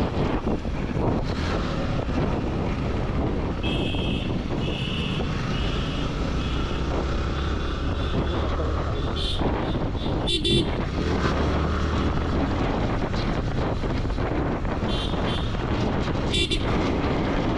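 Steady engine, road and wind noise of a motorcycle underway in highway traffic. Vehicle horns honk through it: a run of four or five short toots about four seconds in, then short single honks around the middle and twice near the end.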